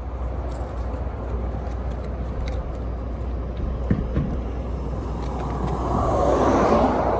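Highway traffic going past at speed, with one vehicle swelling to a loud whoosh near the end and fading, over a steady low rumble. Two short knocks about four seconds in.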